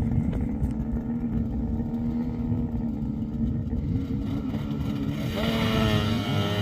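Snowmobile engine running at a steady pitch, then revving up with a quickly rising pitch about five seconds in.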